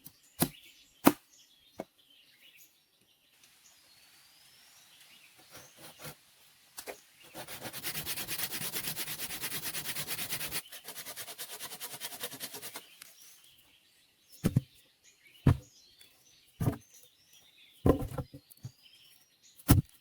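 Wood being worked by hand: a few seconds of steady rasping, like sawing or rubbing, from about a third of the way in, then five loud knocks about a second apart near the end. Birds chirp in the background.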